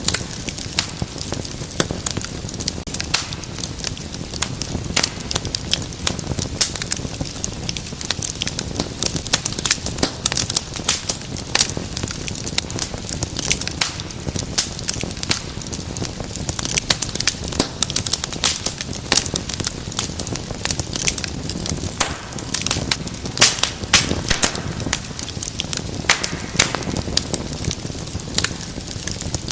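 Wood fire burning in a fireplace, crackling and popping continuously over a low steady rumble of the flames.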